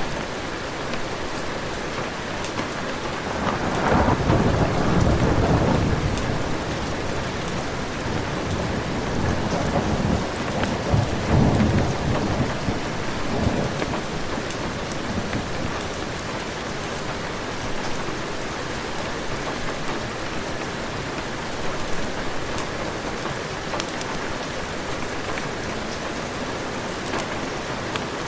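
Steady heavy rain, with two rolls of thunder: a low rumble about three to four seconds in, and another from about ten to fourteen seconds in.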